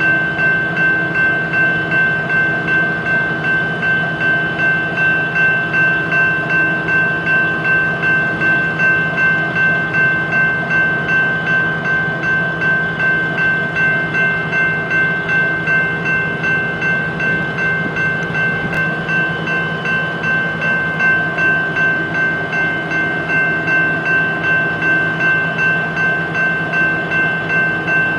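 Railroad grade-crossing bell ringing steadily, about two strokes a second, over the low steady rumble of a train.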